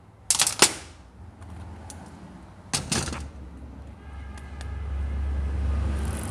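A few sharp metal clanks, then a low steady mechanical hum that swells toward the end, as of a motorcycle's engine or drivetrain turning.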